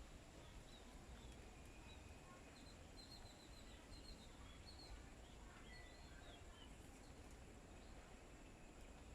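Faint small birds chirping: scattered short high chirps, with a quick run of about six about three seconds in, over a steady low outdoor background noise.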